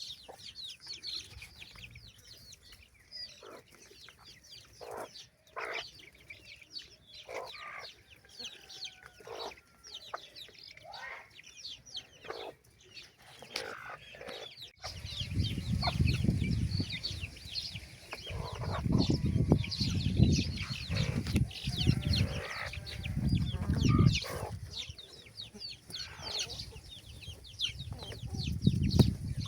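Chickens clucking amid a steady chatter of high chirps. About halfway through the sound changes abruptly, and loud low rumbling bursts come and go over the chirping.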